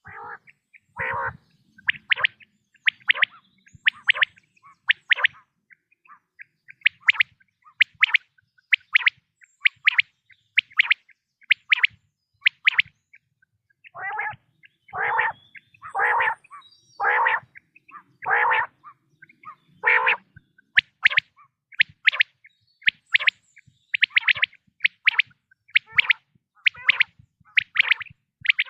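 Common quail calling: short, sharp, high notes repeated in quick groups of two or three, the kind of song played to lure quail. A run of longer, lower calls comes from about 14 to 20 seconds in, with one more about a second in.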